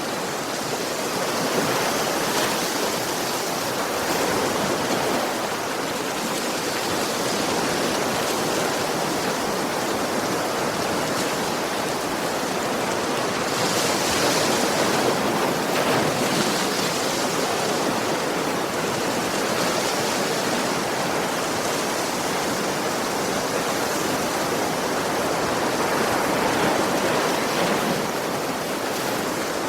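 Ocean surf: waves washing continuously onto a shore in a steady rush of water, swelling a little about halfway through and again near the end.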